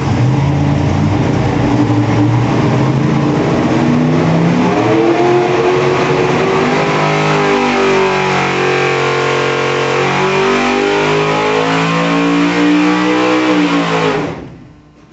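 632 cubic inch big-block Chevrolet V8 running hard on an engine dyno. The revs climb over the first few seconds, hold high with some rise and fall, then drop away, and the sound cuts down sharply near the end.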